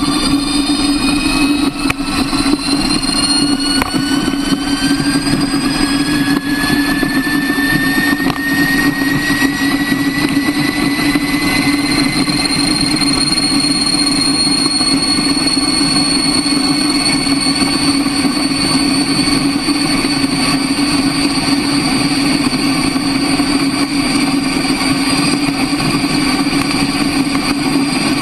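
Motorcycle running at speed, with a steady drone, a rushing haze of noise and a thin whine that climbs slowly in pitch for about the first ten seconds, then holds.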